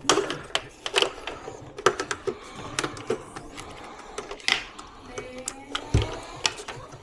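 Irregular clicks, taps and knocks of air-conditioner parts being handled and taken apart, with a dull thump about six seconds in.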